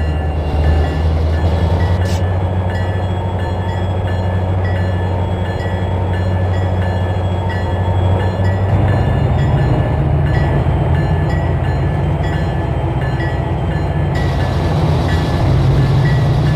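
Freight train's diesel locomotives running, a loud, steady, deep engine rumble that shifts up in pitch about halfway through.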